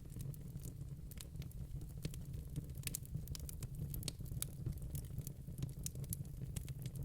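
Wood fire in a fireplace crackling: many small, sharp, irregular pops and snaps over a steady low rumble.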